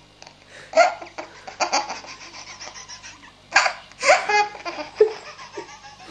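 Baby laughing hard in repeated bursts with short quiet gaps between, the strongest about three and a half to four and a half seconds in.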